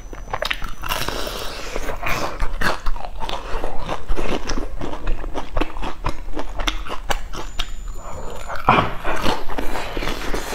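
Crispy deep-fried breaded cakes being bitten and chewed close to the microphone, with a dense run of irregular crunches and crackles from the crust.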